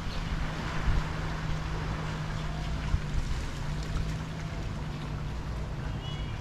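Sea water washing and lapping at a harbor beach, an even rushing wash with a few soft low thumps. A steady low hum runs underneath, and a short high chirp sounds near the end.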